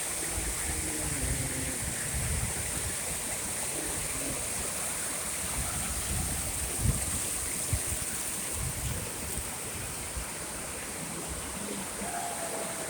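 Waterfall water rushing steadily, with two brief low thumps about seven seconds in.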